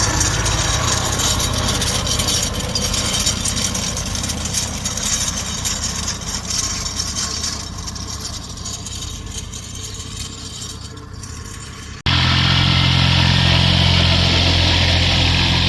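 Engine of a vehicle towing a scarifier harrow, running and slowly growing fainter, with a hissing rattle above it. About twelve seconds in, the sound cuts abruptly to a louder, steady engine drone.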